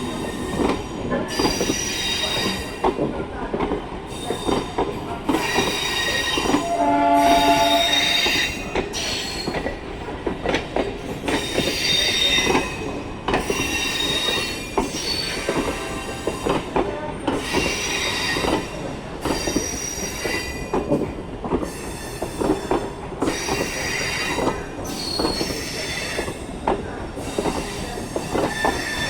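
MEMU electric passenger train arriving, its wheels squealing again and again in high pitched bursts over a steady clatter of wheels on rail joints. A short horn blast sounds about seven seconds in.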